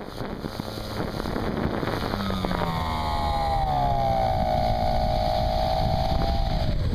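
R/C airplane's motor running, heard from the plane with wind rushing over the microphone. Its whine slides down in pitch about two seconds in, holds steady, then drops again at the very end as the throttle comes back.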